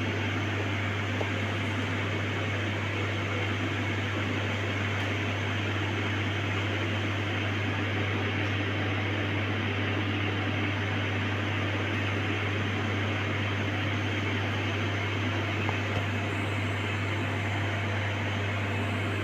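Steady hum of a fan or small appliance motor running, with a strong low drone under an even hiss.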